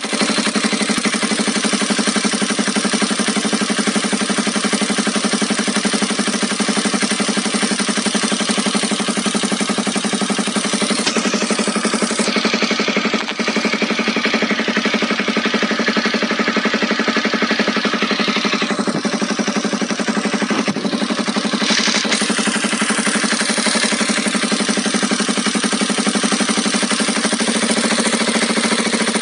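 Honda CBR250R motorcycle engine idling steadily, with a fast, even mechanical clatter in its running. This is the strange noise the owner has not traced: it has been put down variously to the valves, the valve shims or the timing chain.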